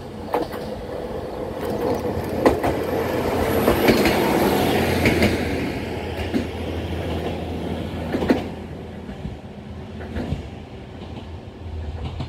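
Kyoto Tango Railway KTR800 diesel railcar passing close by: its engine running and its wheels clicking over the rail now and then. The sound is loudest about four to five seconds in, then fades as it moves away.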